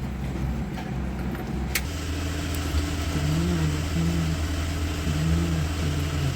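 Small scooter engine running steadily at idle, with a sharp click about two seconds in.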